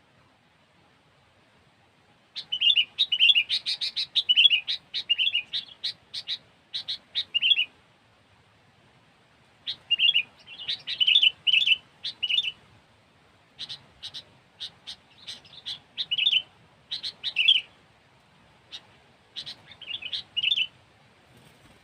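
Sooty-headed bulbul (kutilang) singing in four phrases of quick, bright chirps, separated by short pauses.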